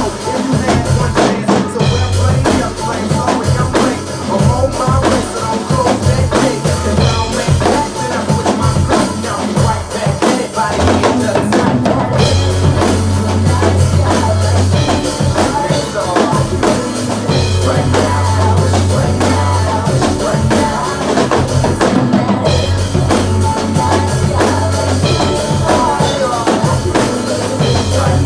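Drum kit played along to a recorded rock song: bass drum, snare and cymbals keeping a steady beat over the track, with a strong bass line.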